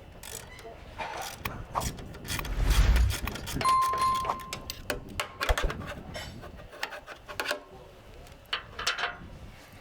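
Scattered clinks and knocks of hands and tools working with metal parts, with a brief low rumble between two and three seconds in and a short single-pitched beep about four seconds in.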